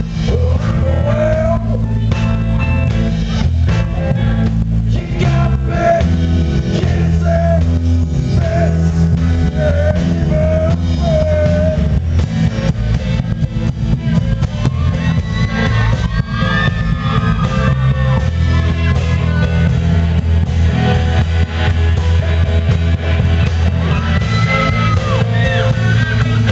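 Rock band playing: bass, drum kit and guitars, with a gliding melodic lead line above them.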